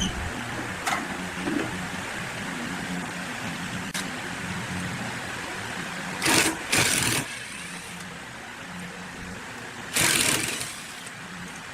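A small motor hums steadily, with short loud bursts of noise about six, seven and ten seconds in.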